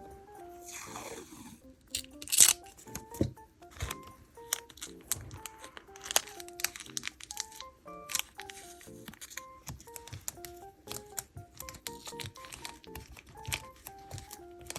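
Paper and sticker handling from diary decorating: rustling, a tear or two, and many sharp clicks and taps, the loudest about two and a half seconds in. Under it runs soft background music, a simple melody of short notes.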